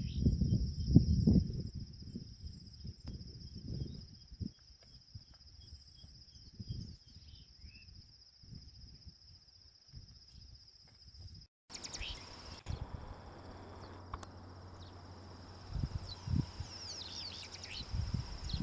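Insects trilling in a steady, high-pitched chorus, with low rumbling thumps in the first few seconds and a few short chirps near the end. The sound drops out for an instant about two-thirds of the way through.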